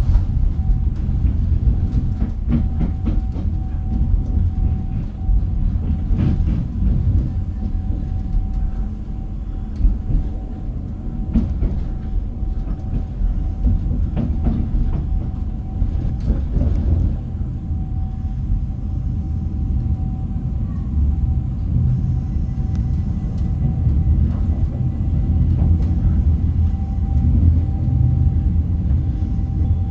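Train running on the track: a heavy, steady low rumble with scattered clacks of the wheels over rail joints every few seconds and a steady high tone throughout.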